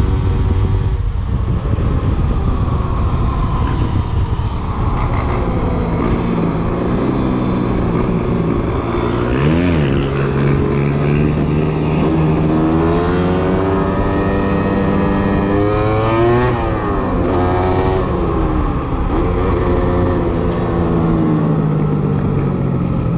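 A 125 cc enduro motorcycle engine revving hard. Its pitch climbs, drops and climbs again several times as it shifts gears and rolls the throttle off and on, with a quick up-and-down blip about two thirds of the way through.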